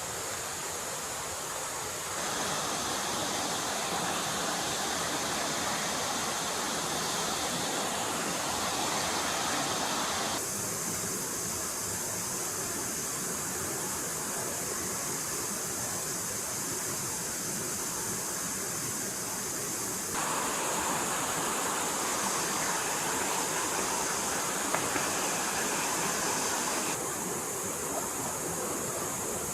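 Stream water flowing, a steady rushing noise whose tone shifts abruptly four times, as if at cuts between recordings.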